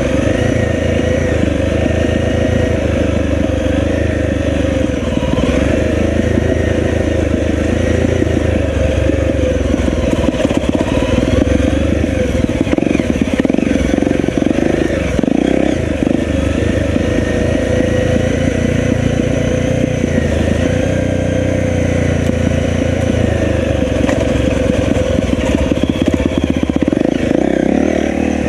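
Enduro dirt bike engine running throughout, its note rising and falling as the throttle is worked.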